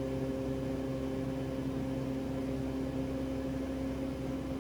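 Cockpit drone of a Cessna Conquest 441's twin Garrett TPE331 turboprops and propellers in a steady climb: an even rushing noise with a few held tones and a low hum.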